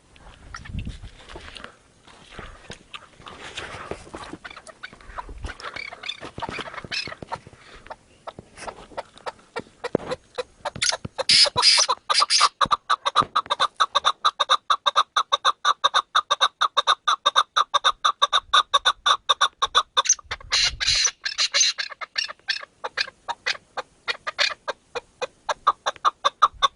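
Chukar partridge calling: softer, scattered notes at first, then about ten seconds in a long, loud run of rapid clucking notes that cuts off suddenly near the end.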